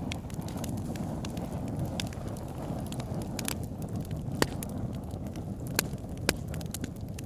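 Wood fire burning in a fireplace: a steady low rush of flames with scattered sharp crackles, and several louder pops in the second half.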